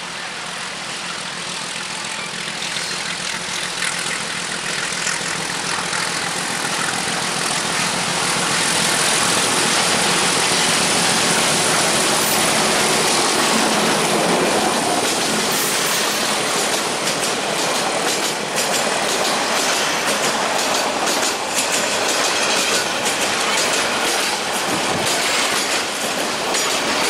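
Passenger train hauled by diesel locomotive 2318 approaching and passing close by. The engine and rolling noise grow louder over the first several seconds, then the coaches roll past with a rapid clickety-clack of wheels over the rail joints.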